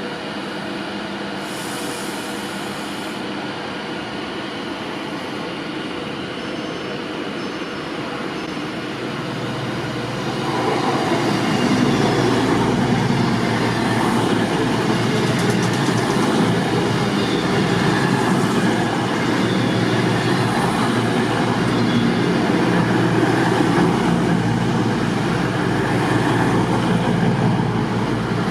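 A train running through a railway station, its rumble growing clearly louder about ten seconds in and staying loud.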